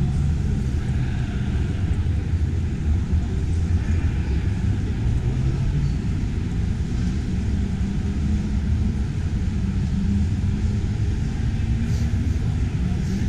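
Steady low rumble of exhibition-hall background noise, heavy in the bass and unchanging.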